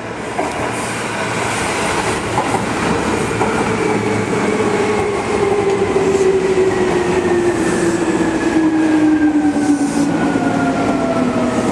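Seibu 2000 series electric train pulling into the platform, wheels rumbling on the rails, with a motor whine that falls steadily in pitch as it brakes to a stop.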